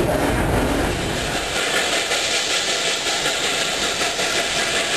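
Cumbres & Toltec narrow-gauge steam train running, heard from an open window of a passenger coach: a steady rolling noise of the wheels on the rails. The deep rumble drops away about a second and a half in.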